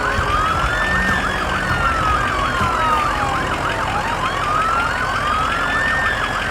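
Emergency-vehicle siren: a slow wail rising and falling twice, overlaid by a fast yelping siren sweeping up and down several times a second.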